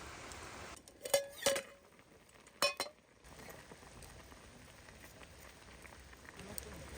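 Steady rain hiss that drops away, then three sharp, ringing metallic clinks of camp cookware, about a second, a second and a half, and nearly three seconds in, over a quieter background of light patter.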